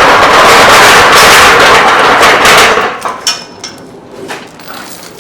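Power impact wrench hammering steadily on a bolt, then cutting off about three seconds in, followed by a few faint metallic clinks.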